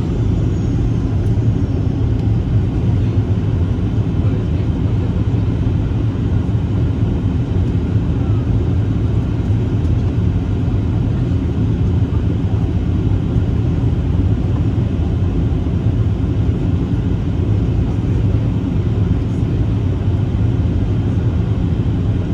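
Steady low rumble of a Boeing 737-800 airliner, even in level with no rise or fall.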